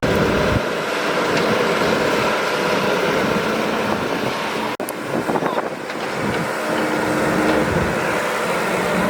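Excavator's diesel engine running steadily, with a brief cut in the sound about halfway through.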